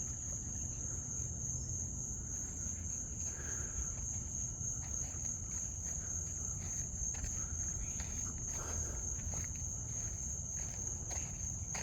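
Night insect chorus of crickets, a steady high-pitched trill, with faint footsteps on a trail.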